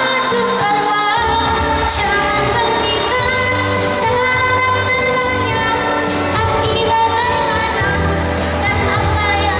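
A young girl singing a pop song live, with instrumental accompaniment: a bass line and a steady beat.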